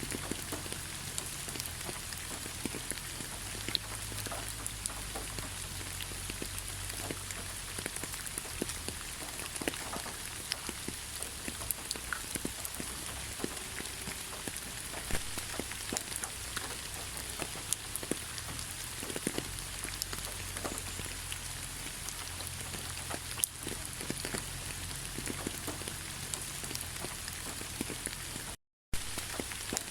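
Steady rain falling in a pine forest, with individual drops ticking over a constant hiss. The sound cuts out to silence for a moment near the end.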